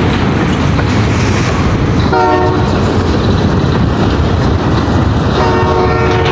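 Freight train cars rumbling and clattering past close by. Over this the locomotive's air horn sounds a short blast about two seconds in and a longer one starting near the end, the closing short-and-long of a grade-crossing horn signal.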